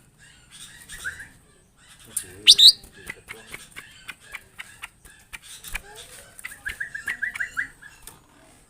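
Bar-winged prinias chirping: one loud, sharp, high chirp about two and a half seconds in and a quick run of about ten short notes near the end, among scattered small clicks and rustles.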